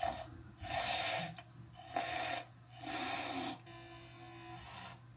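Small battery-powered handheld frother whisking instant coffee and jaggery powder in a cup: four short rasping bursts, then a steadier, quieter whir for about a second and a half.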